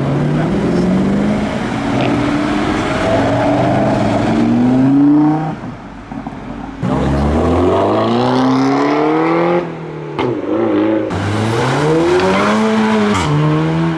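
Modified car engines revving hard as cars pull away under acceleration. The pitch climbs in three long runs, each ending in a sudden drop as the driver shifts or lifts off.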